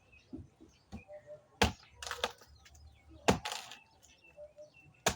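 A blade chopping into moringa tree wood: three sharp strikes about a second and a half apart, each followed by a brief rustle of shaken branches and leaves.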